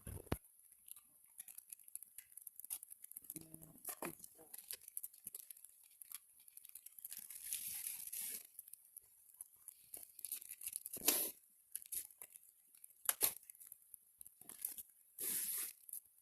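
Small wood fire crackling in a compact trivet stove: irregular snaps and pops, with a few brief rustling, crumpling bursts.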